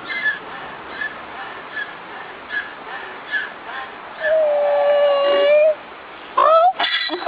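An animal calling: a string of short high chirps about once a second, then a long steady whine-like call about four seconds in, and a wavering call near the end.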